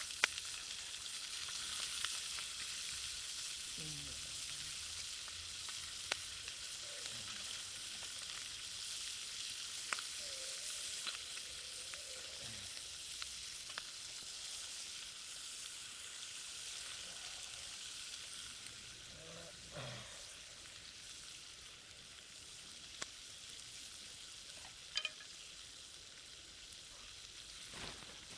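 Chicken skin and bean sprouts sizzling in a frying pan over a wood fire while being stirred with chopsticks, with a few sharp clicks. The sizzle gradually fades.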